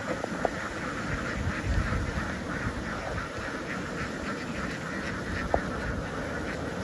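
A large flock of domestic ducks quacking continuously, many birds calling over one another, over a low rumble.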